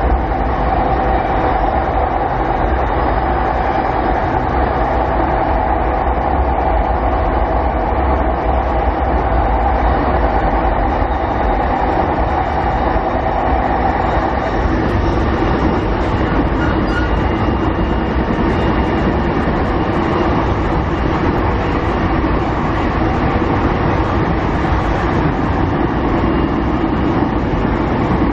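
Interior running noise of a JR 209 series 500 electric train under way, heard from inside a motor car: steady wheel and rail noise with a hum from the running gear. About halfway through, the higher hum gives way to a lower one.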